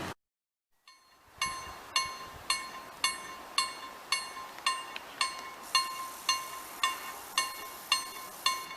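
Polish railroad crossing bell (KLD-4013) ringing steadily, about two strikes a second with a clear metallic ring, warning that the crossing is active. It starts a little over a second in, after a brief silence.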